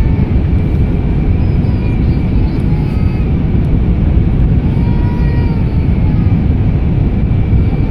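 Airliner cabin noise: the steady low rush of the jet engines and airflow heard from a passenger seat during descent, with a faint steady whine above it and faint voices in the cabin.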